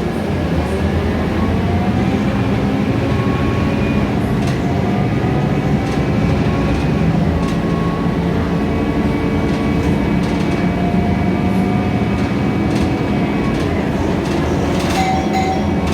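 Cabin sound of a Scania K320iA CNG city bus under way: a steady engine and road drone whose tones slowly rise and fall as the bus gathers and sheds speed. A brief spell of clicks and rattles comes near the end.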